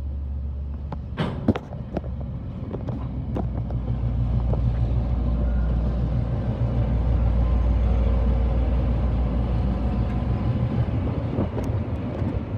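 Train passing by: a steady low rumble that builds to its loudest about two-thirds of the way through, then eases off.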